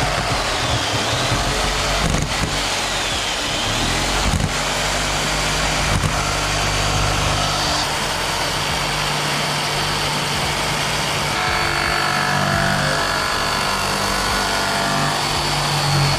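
Black & Decker power tool running steadily while cutting through a plastic motorcycle windshield. Its high whine dips briefly twice in the first few seconds, and there are a few sharp knocks.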